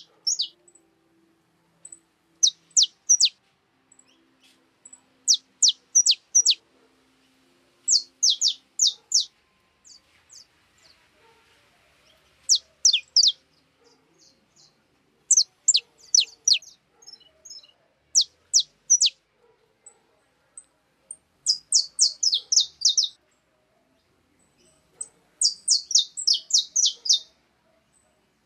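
Small songbirds chirping: sharp, high, quickly falling notes in short runs of two to six, every second or two, with a busier stretch of chirps near the end.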